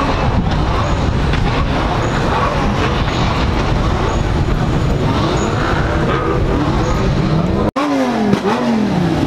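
Car engines running at idle, a steady low drone. After an abrupt cut near the end, an engine revs up and down a couple of times.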